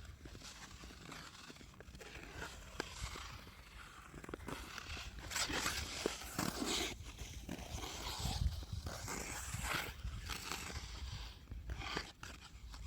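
Ice skate blades scraping and gliding over lake ice, in uneven swells of a second or two with a few short clicks.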